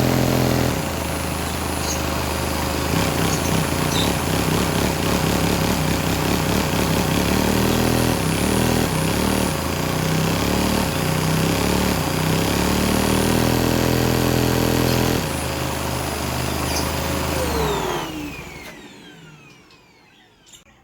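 Vacuum suction source running steadily to drive a Lego vacuum piston engine with an enlarged valve, its low tones shifting as the engine runs. About seventeen seconds in it is switched off and winds down with a falling whine, fading out.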